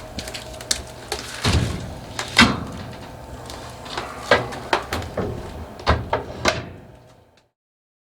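A run of irregular knocks and bangs over a low hum, fading out near the end.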